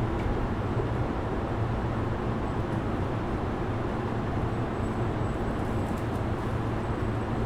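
Steady hum and hiss inside a Sotetsu 12000 series electric train car, with no rising or falling motor whine.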